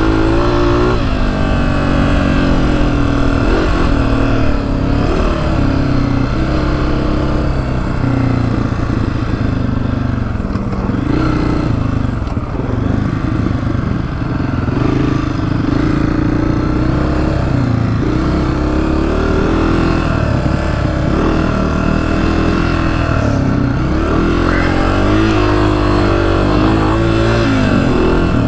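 Honda CRF250F dirt bike's single-cylinder four-stroke engine running under way, its pitch rising and falling again and again as the throttle is worked over rough trail.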